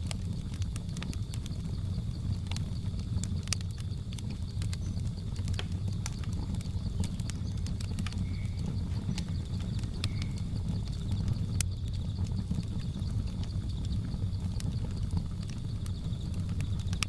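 Wood fire burning with a steady low rumble and scattered sharp crackles and pops, over a steady high insect drone of jungle ambience. Two short faint calls stand out about eight and ten seconds in.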